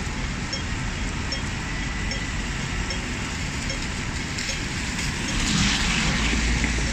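Steady city traffic noise with a pedestrian crossing signal ticking slowly and evenly. A vehicle passes, louder, about five to six seconds in.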